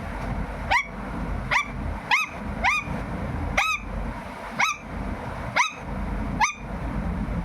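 Pet parrot giving a string of short calls, each sweeping quickly upward in pitch, repeated about once a second.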